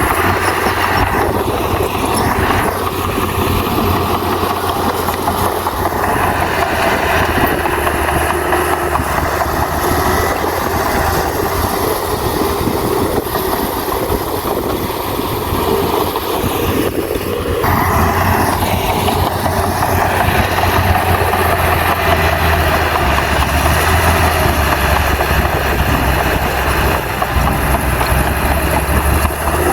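Diesel engine of heavy earthmoving machinery running steadily under work, with a sudden change in its sound about seventeen seconds in.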